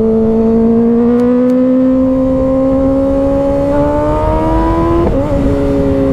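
2024 Kawasaki ZX-6R 636 inline-four engine pulling steadily in gear, its pitch rising slowly as the bike gains speed. About five seconds in the pitch drops sharply, as at a gear change, and then holds nearly steady.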